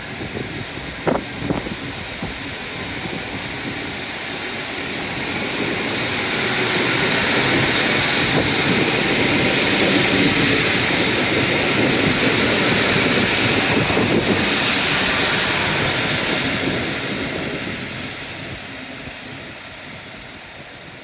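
A train passing through the station: a rushing rumble that builds over a few seconds, stays loud for several seconds, then fades away.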